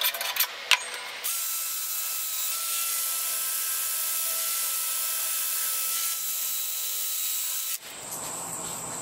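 Rapid rasping strokes of a hand file stop about half a second in. After a click, a power tool runs with a steady high whirring hiss for about six seconds and cuts off near the end.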